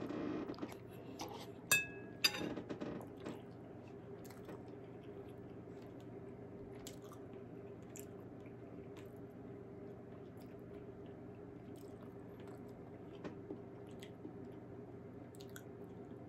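A person chewing a mouthful of chicken noodle soup, with soft, quiet mouth sounds. Near the start a metal spoon clinks twice against the ceramic bowl with a short ring. A faint steady hum runs underneath.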